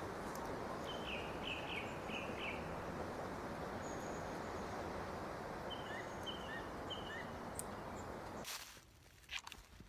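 Birds chirping in short runs of notes over a steady rushing background noise in woodland; the rushing noise cuts off suddenly near the end, leaving a few faint clicks.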